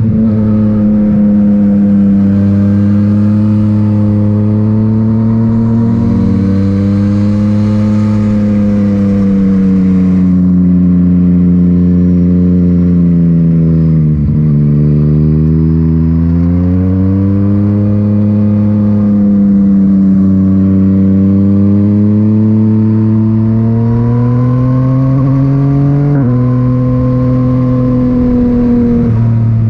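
Yamaha MT-09's inline-three engine through an Akrapovic titanium exhaust, pulling under way with the revs rising and falling. There is a gear change about six seconds in and another near the end. Around the middle the revs drop away sharply, then climb again.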